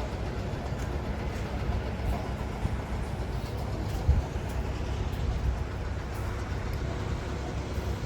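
Street traffic: a steady low rumble of vehicles, with a brief louder thump about four seconds in.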